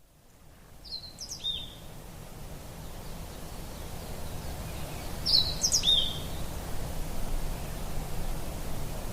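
Outdoor nature ambience fading in: a steady low rushing noise, with a bird giving two short chirping calls, about a second in and again about five seconds in.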